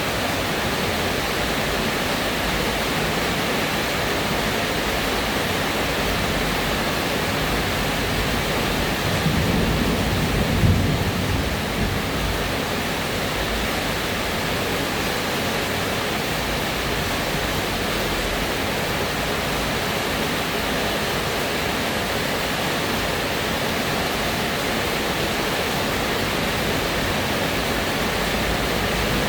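Steady rain falling, an even hiss. About nine seconds in, a brief low rumble rises under it for a couple of seconds, then fades.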